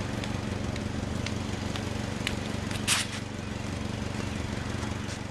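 Compact SUV's engine idling with a steady low hum, a few faint ticks, and one short sharp hiss about three seconds in.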